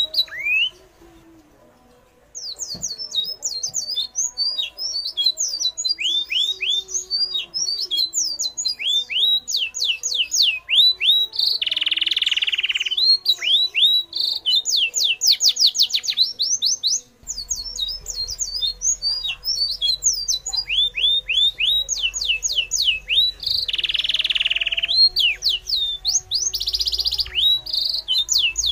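Forest birds chirping: fast, dense runs of short, high, falling chirps repeating over and over. Twice, a harsher buzzy burst of about a second cuts through.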